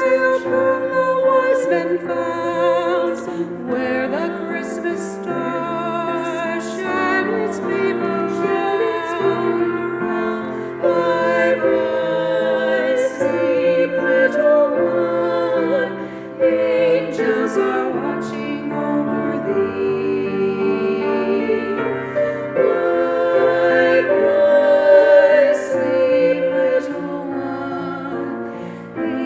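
A vocal trio singing a Christmas lullaby in harmony with piano accompaniment, the voices holding long notes with vibrato.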